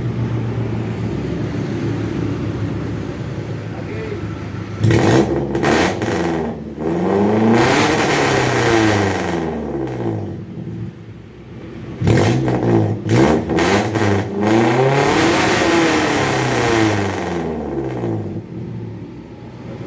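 Suzuki Futura injection's four-cylinder engine idling through an HKS Hi-Power racing exhaust, revved twice: the first rev about five seconds in and the second about twelve seconds in, each climbing and falling back over several seconds.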